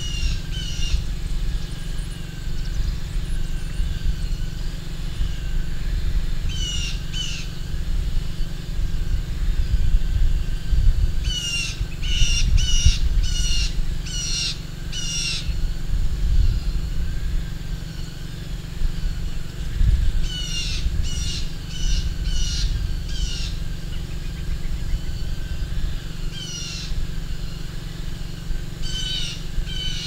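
A bird calling outdoors, in short runs of four to six repeated high notes every few seconds, over a steady low rumble.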